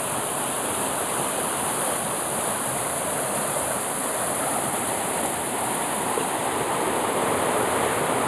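Waterfall rushing: a steady, dense roar of falling water, swelling slightly toward the end.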